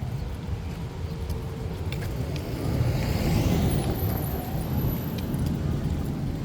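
A car passing by on the street, its tyre and engine noise swelling to a peak about three and a half seconds in and then fading, over a steady low rumble of traffic.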